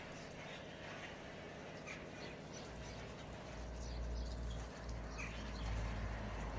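Faint, scattered bird chirps over a low rumble that grows louder about halfway through.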